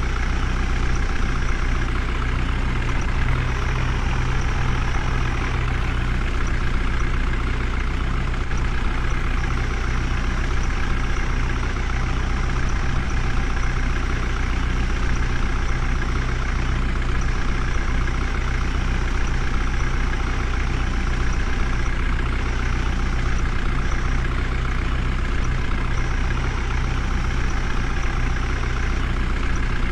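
Heavy diesel engine running steadily at a constant speed, with a deep low hum and no revving.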